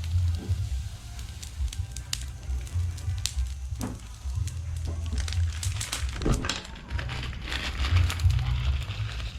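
Wood campfire crackling and snapping in irregular sharp pops, over a low, uneven rumble.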